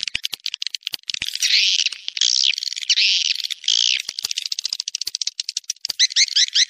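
Swiftlet mating calls: fast high chirps and clicks, then long buzzy trills from about one and a half to four seconds in, then rapid twittering that settles into an even run of about six chirps a second near the end.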